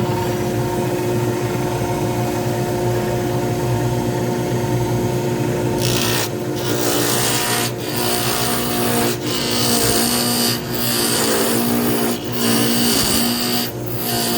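Pen-turning lathe running with a steady motor hum. About six seconds in, the spinning pen blank starts being worked with a loud scraping hiss in strokes, each broken by a short pause about every one and a half seconds.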